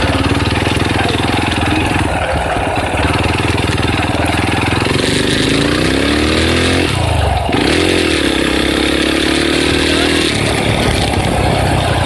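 Dirt bike engine running under throttle as it is ridden. Its pitch climbs for a couple of seconds, drops suddenly about seven seconds in, rises again, and then holds steadier.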